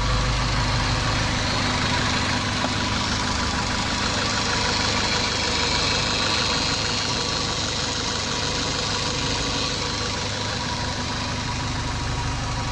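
Honda D16W four-cylinder engine, freshly swapped into a Honda Ballade, idling steadily after its first start-up.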